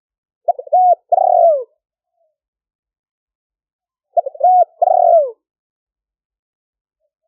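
Spotted dove cooing: two phrases about three and a half seconds apart, each a quick stutter of notes followed by longer drawn-out coos. The background noise has been cut out, so there is silence between the phrases.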